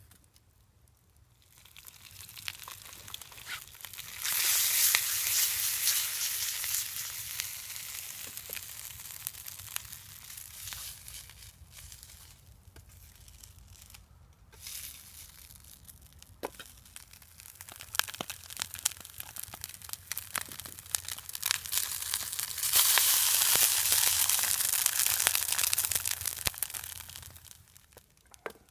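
Grits patties and an egg sizzling in a mess kit frying pan over a campfire, with scattered pops and crackles. The sizzle grows loud twice, about four seconds in and again near the end, and eases off between.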